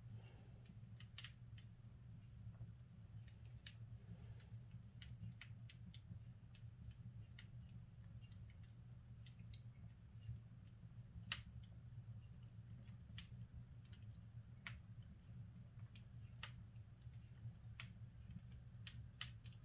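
Wood fire crackling in a fireplace: faint, irregular sharp pops and snaps, one louder pop about eleven seconds in, over a steady low hum.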